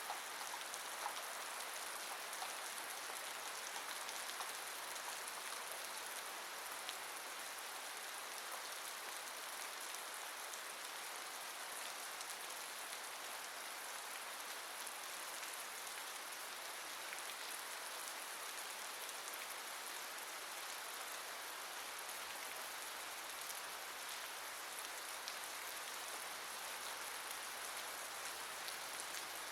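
Steady rain falling, a continuous hiss with many small drop ticks and no thunder or other sound standing out.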